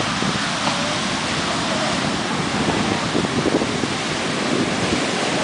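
Rough ocean surf breaking and washing up the beach in a steady, loud rush: storm surf raised by a hurricane offshore.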